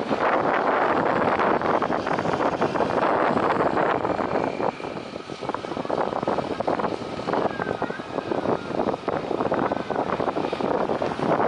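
Jet airliner engines running, a steady loud rush of jet noise that dips briefly about halfway through.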